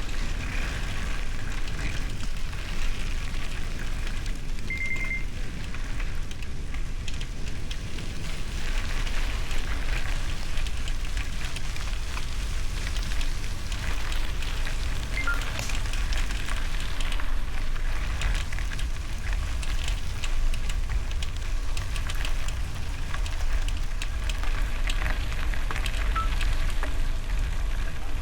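Bicycle tyres rolling over a gravel road, a steady crackle of loose stones, with wind rumbling on the microphone. A short high squeak sounds once about five seconds in.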